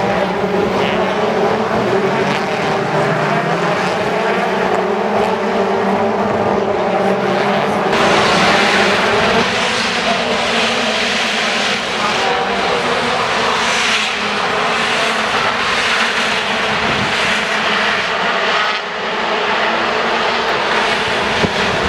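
Touring car engines running during the race: a continuous engine drone with steady pitch lines that turns noisier and harsher about eight seconds in.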